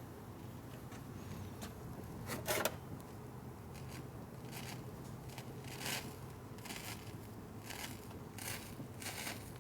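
Short scraping strokes of solder wire rubbed against a fluxed, torch-heated metal fuel strainer, coming irregularly at about one a second and more often in the second half, over a steady low hum. The part has not yet come up to temperature and the solder is not flowing.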